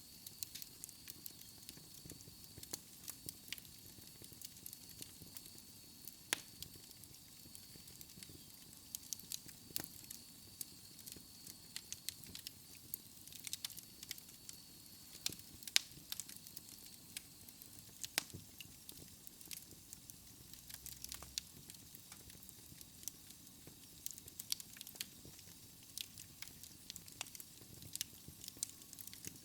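Wood fire crackling, with irregular sharp pops and snaps over a soft steady hiss. A faint thin high whistle runs through roughly the first half.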